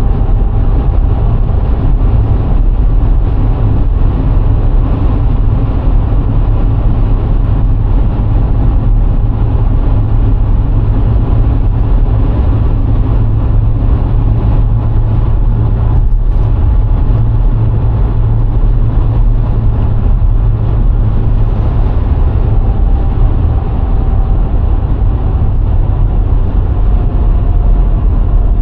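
VW Golf IV 1.6 driving steadily at speed: a constant deep road and wind rumble with the engine's hum underneath, unchanging throughout.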